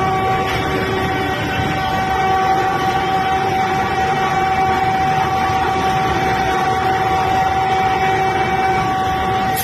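Vande Bharat high-speed train running at speed, heard from inside the driver's cab: a steady rushing rumble with a constant high whine over it.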